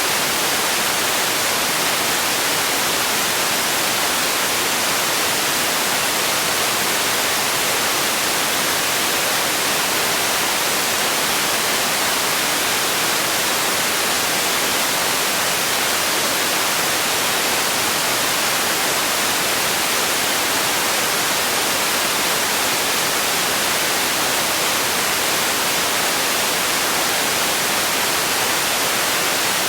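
Steady synthetic noise for sleep: an even, unchanging hiss, strongest in the high range and thin in the bass.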